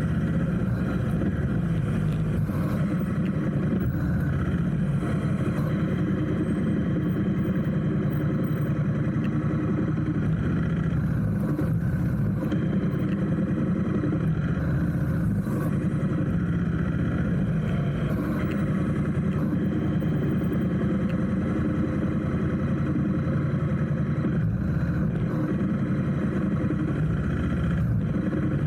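Motorcycle engine running steadily at low speed in traffic, a continuous low drone with no sudden changes.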